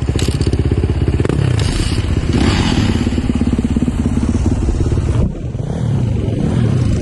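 Dirt bike engine running loud and close under throttle, its firing pulses quick and even, the pitch and level shifting a few times as the rider works the throttle.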